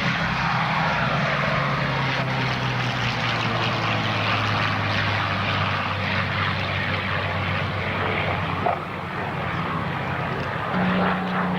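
Curtiss P-40 fighter flying past, its V-12 engine and propeller giving a steady drone whose low note drops in pitch over the first few seconds as it goes by. A higher engine note comes in near the end.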